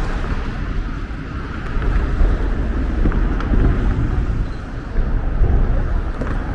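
Low, fluctuating rumble of outdoor city noise, with wind buffeting the microphone.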